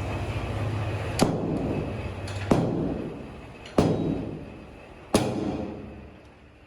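Four sharp knocks about 1.3 seconds apart, each ringing briefly, over a steady low machine rumble that dies away near the end.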